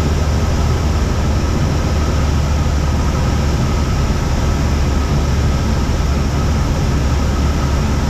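Deep, steady drone of a Cessna 172's engine and propeller heard inside the cabin in flight, unchanging throughout.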